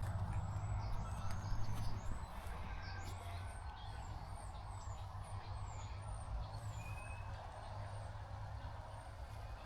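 Small birds chirping in short, high-pitched notes, many quick slurred calls one after another, over a steady low rumble.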